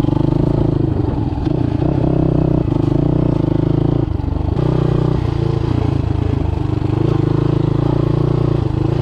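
Motoland Legend motorcycle engine running while ridden over rough ground, its pitch rising and falling every second or two as the throttle opens and closes, with some rattling from the bike.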